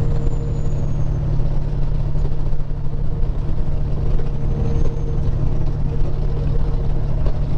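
Peterbilt 379 semi truck cruising at highway speed: steady diesel engine drone with road and wind noise, and a constant faint hum holding one pitch.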